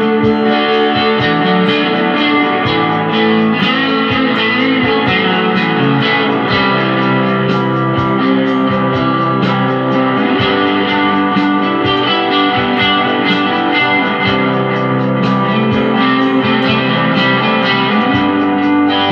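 Electric guitar lead played through a Fender Champion 20 amp with a Boss DD-3 delay pedal, sustained and bent notes with echo repeats, over a slow rock backing track with bass and chords.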